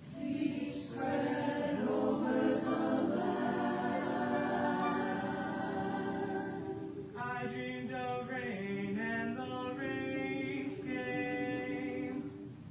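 Choir singing long held chords without accompaniment. The chord shifts about seven seconds in, and the singing is released shortly before the end.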